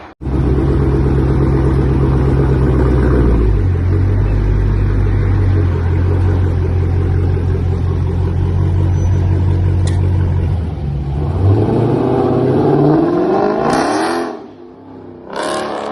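Dodge Charger Scat Pack's 392 HEMI V8 running loud through an MBRP Street cat-back exhaust as the car drives off under throttle. The engine note drops in pitch about three and a half seconds in and holds steady. It climbs again for a few seconds near the end, cuts out briefly, and comes back.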